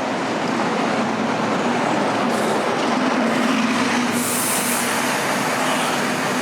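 Steady vehicle noise on a city street: a continuous rumble and hiss with a steady low hum, and a brief burst of high hiss about four seconds in.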